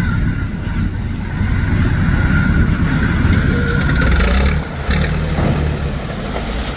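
Heavy vehicle engine running hard in the mud, loud and steady, with a short dip about four and a half seconds in.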